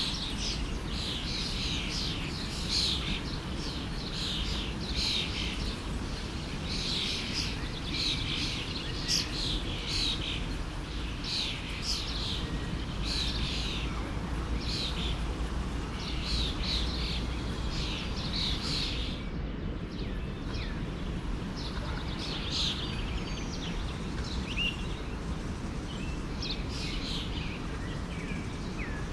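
Several small birds chirping in quick, short calls over the steady rush of a forest stream. The chirping thins out a little after about twenty seconds.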